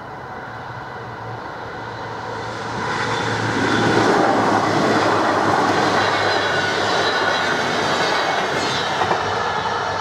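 Electric passenger train passing over a level crossing. The rushing rail noise builds over the first few seconds and is loudest from about four seconds in, with wheel clatter over the rail joints and a couple of sharp knocks near the end as it fades away.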